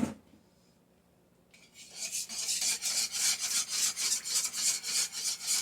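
A short knock, then a flour-and-butter roux sauce being stirred briskly in a pot from about a second and a half in, the utensil scraping rhythmically against the pan a few strokes a second as the added milk and stock are worked in to heat and thicken.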